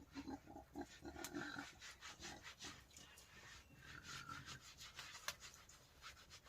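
Wild boar grunting and snuffling softly in short low bursts, with scattered faint clicks.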